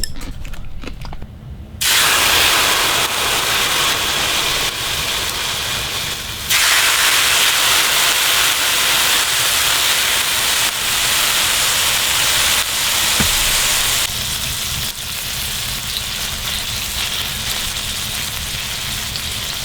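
Marinated pork ribs sizzling on a hot griddle, starting suddenly as the meat goes on and growing louder a few seconds later as more is laid down.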